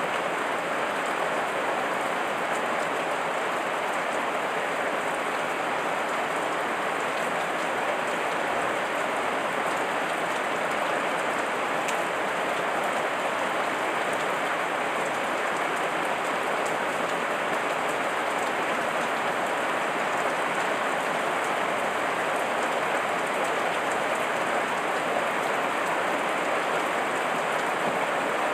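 Heavy rain falling steadily, an even hiss of countless drops with faint individual drop ticks.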